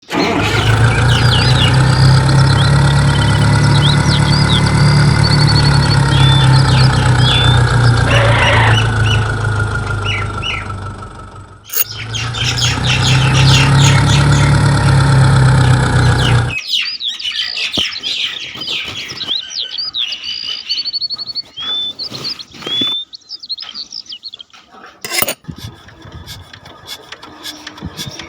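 A small motor of a miniature tractor running steadily under load, its pitch slowly rising and falling, with a brief break near twelve seconds; it stops about sixteen seconds in. Birds chirp throughout, and after the motor stops there are scattered small clicks and knocks.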